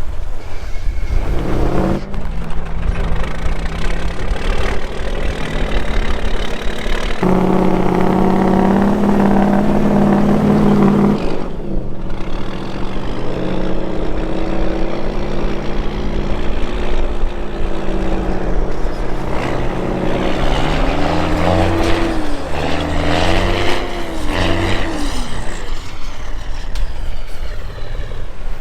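A truck engine working under load, revving up and down: it grows louder and higher about seven seconds in, drops briefly around eleven seconds, and changes pitch quickly several times near the end. Wind buffets the microphone throughout.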